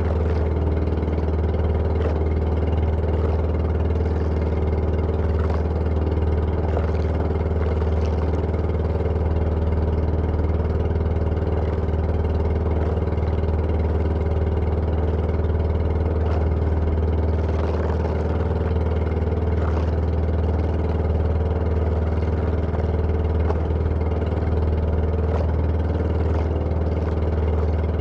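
An engine running steadily at a constant speed, with a deep, even hum that does not rise or fall.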